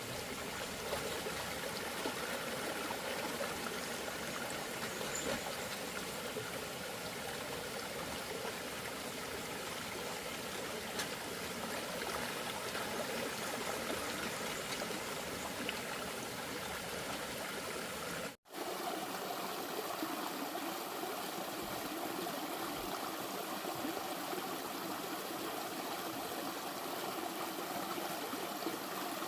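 Steady rush of flowing water, like a stream, with a brief dropout about 18 seconds in after which it carries on.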